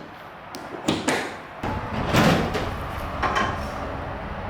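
A couple of sharp knocks about a second in, then a longer scraping clatter around two seconds in, over a low steady hum.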